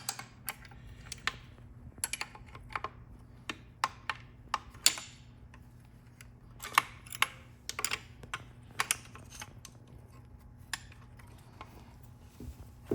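Irregular sharp metallic clicks and clinks of small internal parts being handled and pulled from a torn-down automatic transmission, over a steady low hum.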